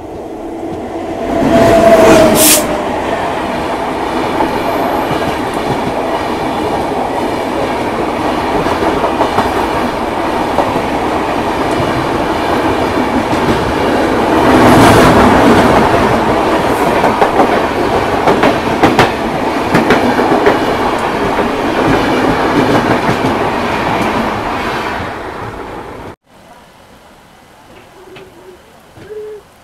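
Express passenger train running on the rails, loud and steady, with swells near the start and about halfway through. It cuts off suddenly about 26 seconds in, leaving only faint background sound.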